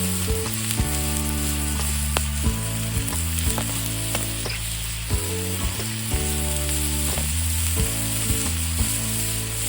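Food sizzling and frying on a hot iron griddle, a steady hiss with scattered sharp pops, under instrumental background music with a bass line.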